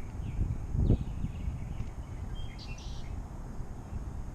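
Birds chirping briefly over a steady low rumble, with one dull thump about a second in.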